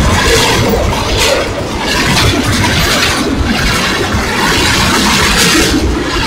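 Tank cars of a CSX freight train rolling past: a steady rush and rumble of steel wheels on the rails, the hiss rising and falling about every two seconds as the cars go by.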